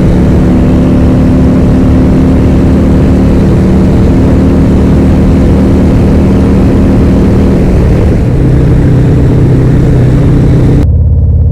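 Harley-Davidson Road Glide ST's Milwaukee-Eight V-twin engine and exhaust running steadily at road speed, with wind noise. About eight seconds in the engine note drops lower, and near the end the sound changes abruptly to a lower, muffled throb.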